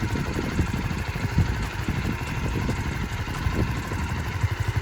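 Motorcycle engine idling, a low rapid pulsing that grows stronger near the end.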